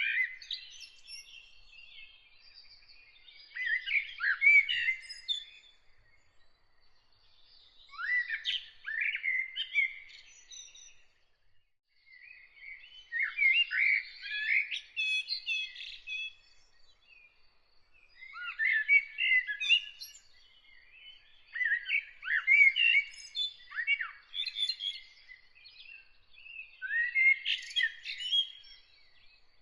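A songbird singing in separate phrases of about two to four seconds, one every four to five seconds, each a quick run of warbled and chirped notes, with short pauses between.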